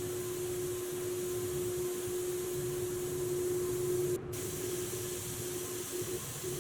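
Steady hiss of air spraying, with a steady mechanical hum beneath it; the hiss breaks off for an instant about four seconds in.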